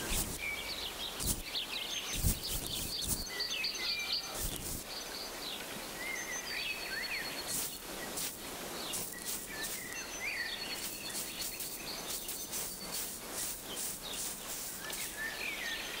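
Outdoor ambience of several small birds chirping and singing in short phrases over a steady hiss, with scattered clicks throughout and a few low thumps in the first few seconds.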